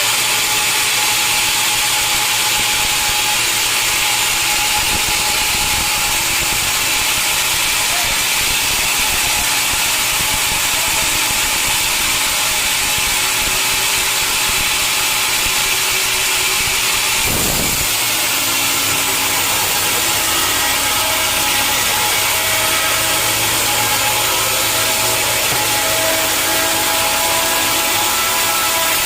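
Sawmill saw cutting through a log, a loud steady machine-and-cutting noise; about two-thirds through the sound shifts briefly and steady tones join in for the rest.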